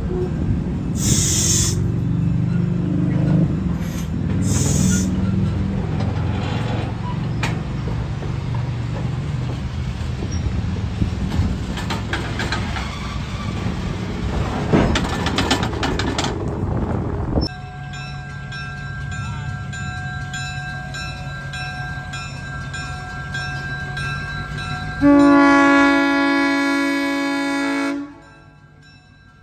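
Passenger cars and a caboose rolling past, wheels rumbling and clattering on the rails, with two brief high wheel squeals near the start. After a sudden change, a diesel switcher locomotive runs steadily, then its horn sounds one loud blast of about three seconds near the end, starting again just at the close.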